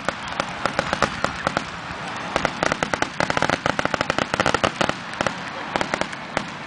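Fireworks crackling: rapid, irregular clusters of sharp pops and cracks.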